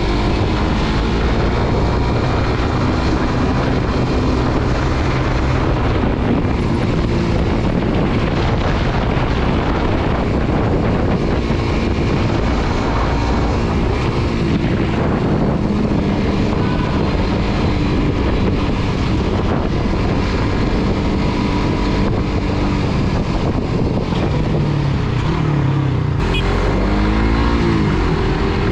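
Suzuki GSX-R150 single-cylinder motorcycle being ridden, its engine running steadily under a rush of wind noise. The engine pitch rises in sweeps near the end as the rider accelerates.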